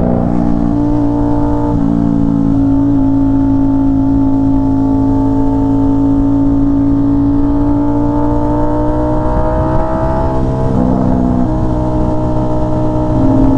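Aprilia RS660's parallel-twin engine running through an SC Project S1 full titanium exhaust while riding. The pitch climbs slowly over several seconds, with a step to a new pitch about two seconds in and another near the end.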